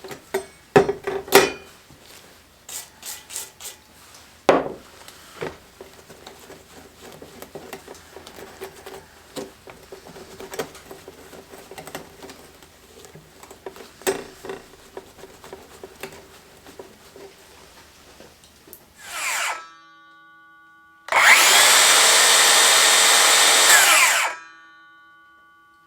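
Scraping and clicking of hand work on a metal circular saw blade, scrubbing the gunk out from between its teeth, in irregular strokes. Near the end comes a loud, sustained sound of about three seconds with its pitch sweeping.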